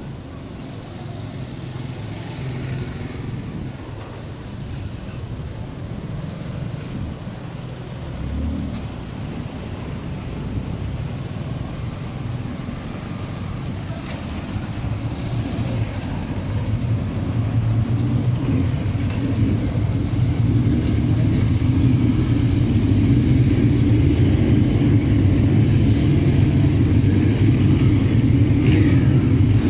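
Motor vehicle engine running, a steady low hum that grows louder over the second half, amid street noise.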